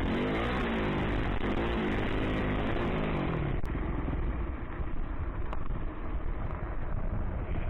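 Yamaha YZ450F dirt bike engine revving up and down in repeated rising and falling sweeps. About three and a half seconds in, the clear engine note gives way to a rough, noisy rush.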